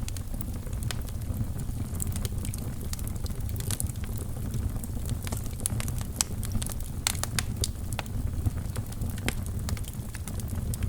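Fire burning in a fireplace, crackling: irregular sharp pops and clicks, scattered through the whole stretch, over a steady low rumble.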